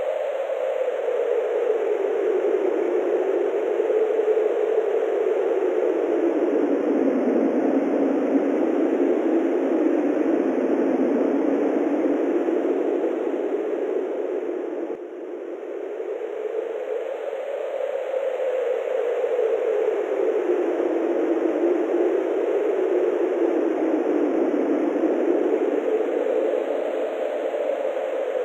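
Wind blowing steadily, a whooshing noise that slowly swells and sinks in pitch over several seconds at a time. About halfway through it drops suddenly, then builds back up.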